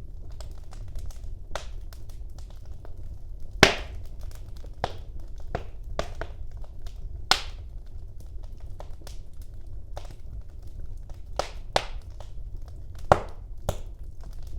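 Wood fire in a fireplace crackling, with irregular sharp pops, three of them louder than the rest, over a low steady rumble of the flames.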